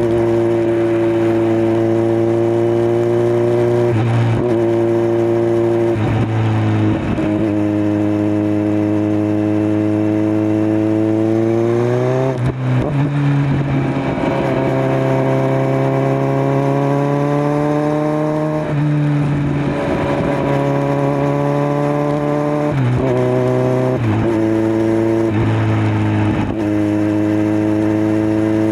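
Kawasaki Z900 inline-four engine through a LeoVince LV10 slip-on exhaust, running under way. It holds steady at times and climbs in pitch under acceleration, with sharp drops at several gear changes: around four and seven seconds in, about halfway through, and a few more in quick succession near the end.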